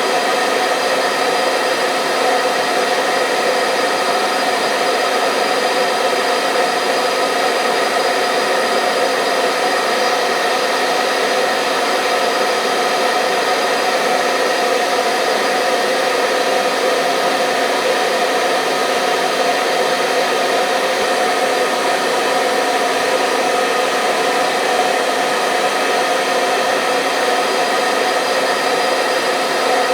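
Hair dryer running steadily: an even blowing rush with a steady motor whine, unchanging throughout.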